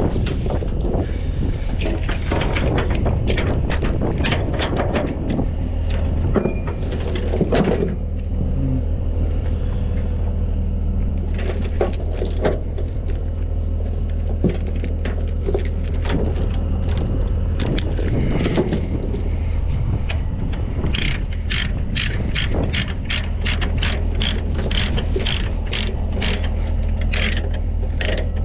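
Ratchet chain binder being cranked on a tow truck's trailer tie-down chain, its pawl clicking: irregular at first, then about two clicks a second over the last several seconds. A truck's diesel engine idles steadily underneath.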